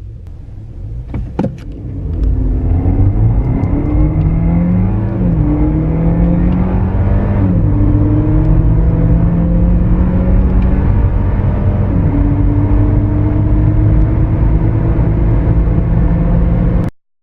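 Car engine accelerating hard from a standstill through the gears. The pitch climbs steadily and drops at each upshift, about three times, with a couple of sharp clicks about a second in.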